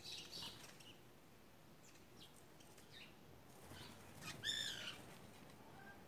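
Garden birds at a feeder: scattered short chirps, then one loud, harsh call of several quick notes about four and a half seconds in.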